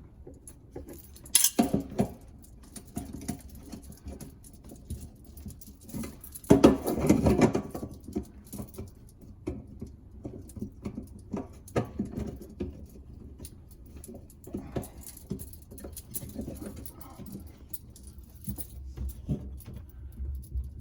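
Garbage disposal sink-flange mounting hardware being fitted by hand: scattered small clicks and knocks of the parts, with one louder noise lasting about a second and a half, starting about six and a half seconds in.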